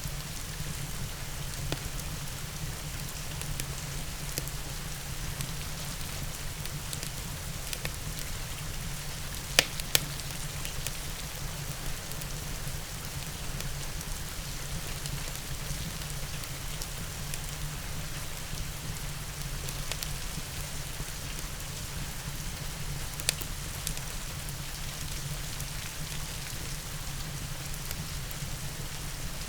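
Steady rain falling, a constant hiss over a low rumble, mixed with an open fire's crackle. A few sharp pops stand out, the loudest about ten seconds in and another about three quarters of the way through.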